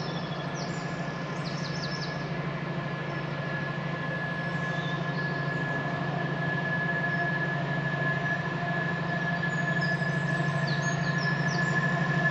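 A train approaching, its steady low engine drone and a high steady whine growing slowly louder. Birds chirp briefly at the start and again near the end.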